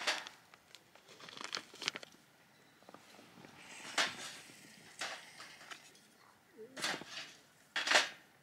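Sticks of firewood being laid into a folding metal fire pit: several sharp wooden knocks a second or two apart, the loudest near the end, with light crinkling in between.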